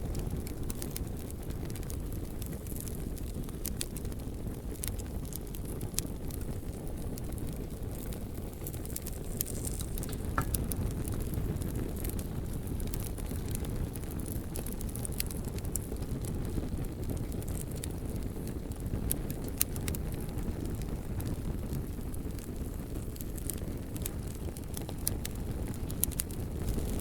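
Bonfire burning: a steady low rumble of flames with scattered sharp crackles and pops from the burning wood.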